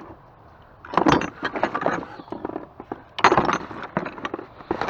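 Hard objects being rummaged through and shifted, clattering and clinking against each other in three bursts: about a second in, about three seconds in, and near the end.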